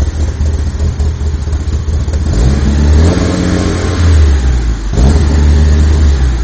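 Mitsubishi Lancer Evolution IX turbocharged 2.0-litre four-cylinder engine, swapped into a Colt, running at its first start-up: a lumpy low rumble, then revved up about two and a half seconds in and held there, with a brief drop in revs near the end.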